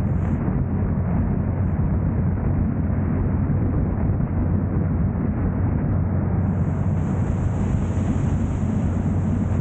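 Steady low rumble of a car driving, road and engine noise with no change in pace. A thin high hiss joins it about six seconds in.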